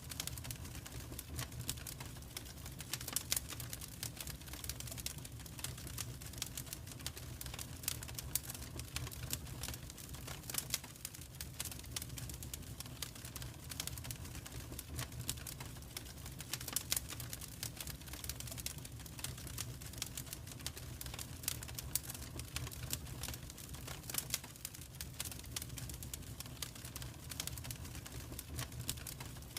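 Wood fire crackling in a fireplace, with irregular sharp pops of varying loudness over a steady low rumble.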